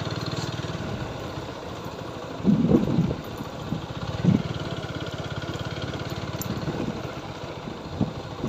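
Single-cylinder engine of a TVS Apache 4V motorcycle running steadily at low revs. Two brief louder sounds cut in over it, the first about two and a half seconds in and a shorter one just after four seconds.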